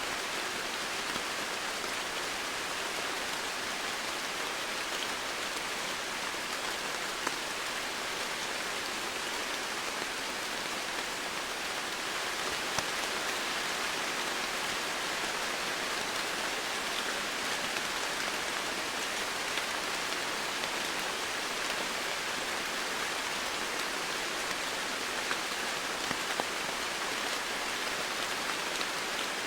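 Steady, even rainfall, with a constant hiss and now and then a single drop ticking a little louder.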